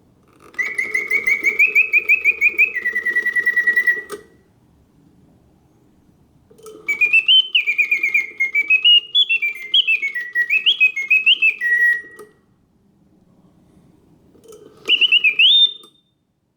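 Karl Griesbaum mechanical singing bird cage on pause mode: the bellows-and-piston whistle sings three trilled phrases, its notes stepping up and down, with pauses between and a low whir from the clockwork under each phrase.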